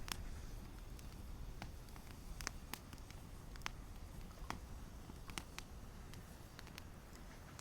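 Wood campfire crackling: irregular sharp pops and snaps, about one or two a second, over a low steady rumble of the burning fire.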